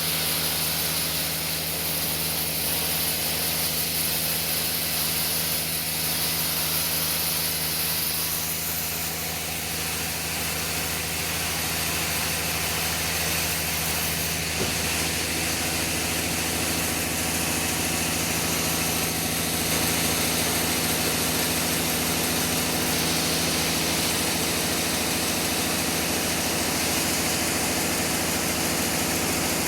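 Sawmill machinery running steadily: a constant motor hum under a high hiss, with the hum's pitch shifting slightly about halfway through.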